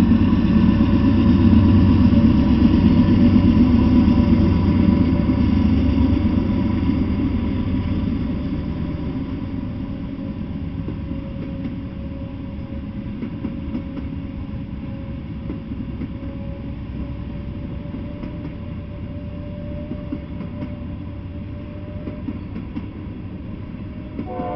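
Diesel-hauled freight train passing on the main line. A loud rumble of locomotive and wheels on rail fills the first six seconds or so, then eases into a steadier rolling rumble as a long string of tank cars goes by.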